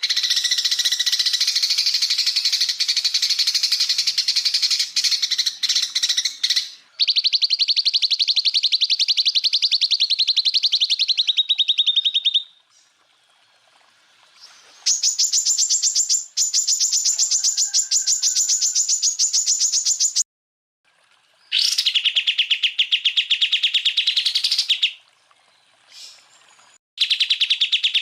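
Greater green leafbird (cucak ijo) song from a masteran tutoring track: long, rapid trills of evenly spaced notes, each run lasting several seconds and separated by short pauses. One run slides slightly lower in pitch at its end, and a later one sits higher.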